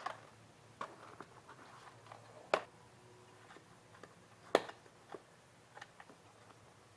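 Scattered light clicks and taps of a cable being worked into slots on a fish finder battery box, with two sharper clicks about two seconds apart.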